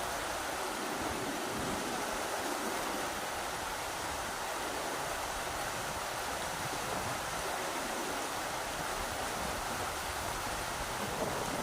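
River water rushing over rocks, a steady, even noise.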